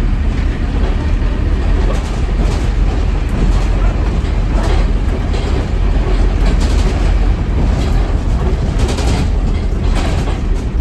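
Scania N230UD double-decker bus running: a steady low engine and road rumble with scattered rattles and knocks.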